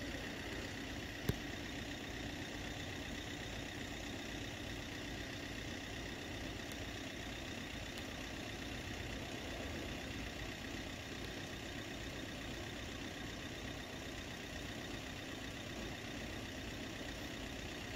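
Steady low hum of road vehicle engines idling, with a single sharp click about a second and a half in.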